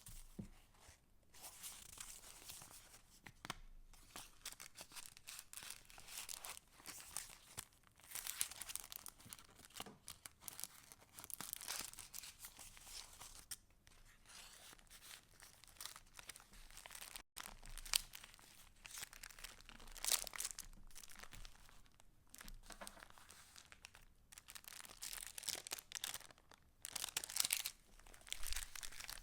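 Paper pages of a handmade junk journal rustling and crinkling as they are turned and handled, in irregular bursts with short pauses and a few sharp clicks.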